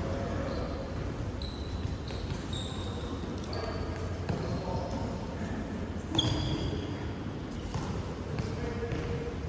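Indoor futsal play: shoes squeaking on the court floor, the ball thudding, and players' voices in the background.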